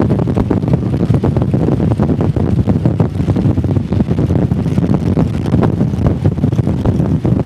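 Motorcycle running at road speed, its engine rumble mixed with heavy wind buffeting on the microphone.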